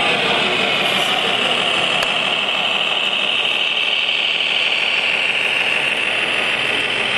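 Radio-controlled model vehicle running steadily, a dense mechanical running sound with a strong high whine that dips slightly in pitch and rises again.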